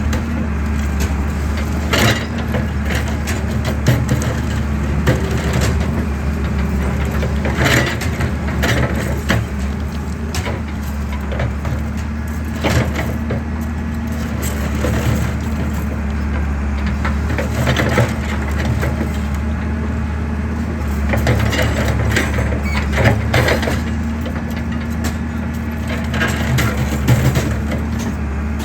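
Excavator diesel engine running steadily while concrete is crushed, with irregular cracking and crunching snaps of breaking concrete over the engine drone.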